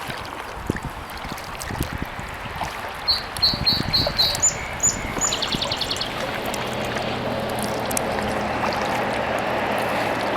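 Kayak paddle strokes with water dripping and splashing, while a songbird sings one phrase of about five quick high notes, three higher notes and a short trill a few seconds in. From about halfway through a steady rushing noise with a low hum builds up underneath.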